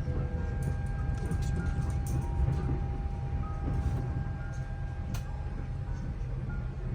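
Steady low rumble of an airliner cabin's air conditioning on the ground, a Boeing 787-8, with a few faint clicks and knocks.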